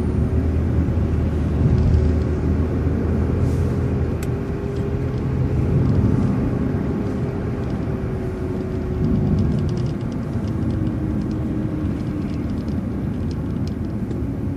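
City transit bus running, with a steady low engine and road rumble and a faint whine that eases slightly lower about ten seconds in.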